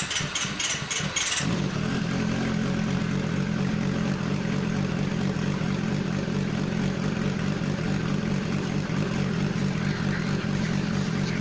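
Honda CB400 Super Four Revo's inline-four engine being cranked by the starter for a moment, catching about a second and a half in and then idling steadily on its freshly changed oil.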